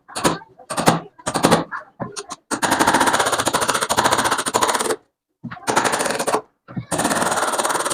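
Rapid rattling impacts from a woodworking tool working wood: a few separate knocks, then long fast rattling runs of a second or two each, broken by sudden stops.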